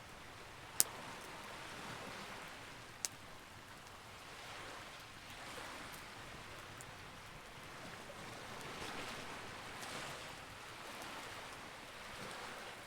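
Campfire burning with a steady crackling hiss that swells and eases, and two sharp pops from the burning wood, about a second in and again about three seconds in.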